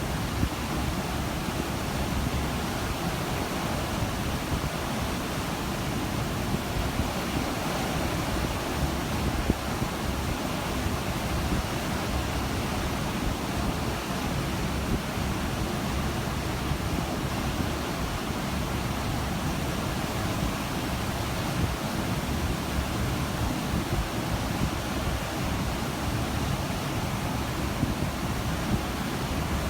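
Ocean water and wind heard from a cruise ship: a steady rushing hiss of the sea, with a gusty low rumble of wind on the microphone.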